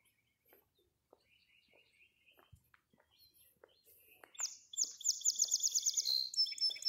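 A small songbird singing close by: a quick run of a dozen or so high repeated chirps starting about four seconds in, then a shorter phrase near the end. Faint, evenly paced footsteps of someone walking run underneath.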